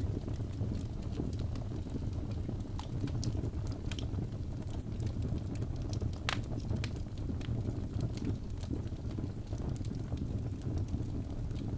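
Wood fire burning in a fireplace: a steady low rumble of flames, with scattered sharp crackles and one louder pop about six seconds in.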